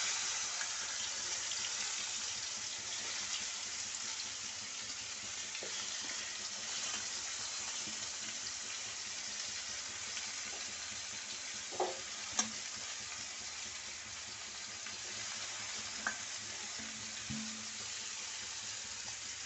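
Oil sizzling steadily as garlic cloves and sliced aromatics fry in a large wok, with a few sharp clicks of the stirring spatula against the pan around the middle.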